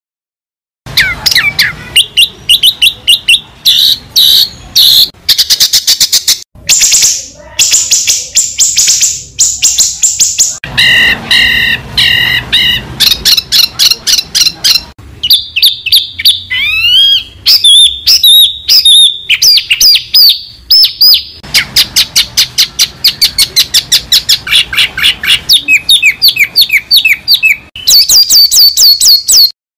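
Songbird song from a masteran tutor recording for white-rumped shamas (murai batu): fast, varied phrases of rapid repeated chirps, clear whistled notes and rising glides. It starts about a second in and cuts off abruptly just before the end.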